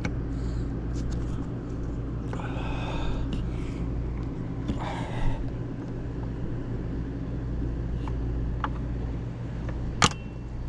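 Steel nippers gripping and working at a pop rivet on an RV awning handle, ending in one sharp metallic snap with a brief ring about ten seconds in as the rivet comes off. Under it runs a steady low motor hum.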